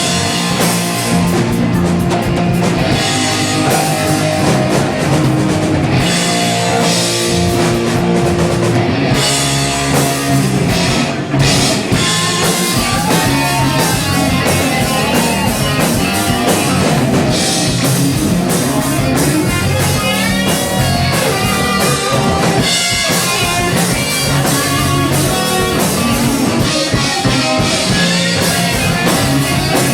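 Live rock band playing: electric guitar and drum kit, loud and continuous, with a brief drop about eleven seconds in.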